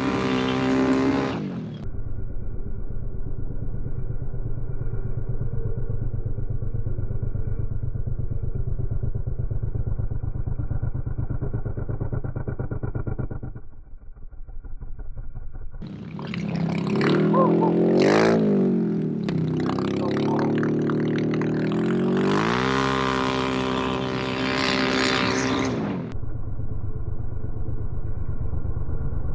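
A vehicle engine that starts high and drops back to a steady idle, goes briefly quieter about halfway through, then is revved up and down several times before settling back to idle.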